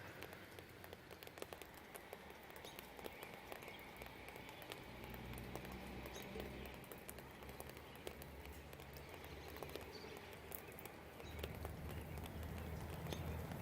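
Rain falling, with scattered drops pattering and ticking, over a low, steady rumble of distant traffic that grows louder about eleven seconds in. Faint bird chirps come through now and then.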